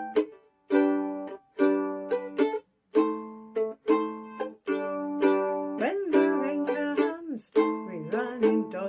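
Mandolin strumming chords in short, damped bursts about a second apart, with brief silences between. A singing voice comes in over the chords about two-thirds of the way through.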